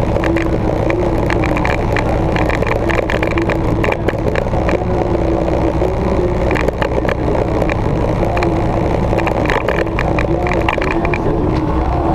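Victory motorcycle's V-twin engine running steadily, with a constant low rumble.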